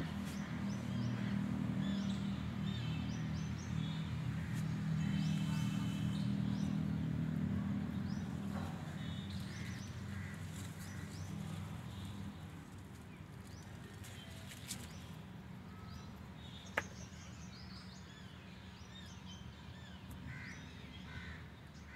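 Small birds chirping and calling over a steady low hum that fades after about twelve seconds, with a single sharp click near the end.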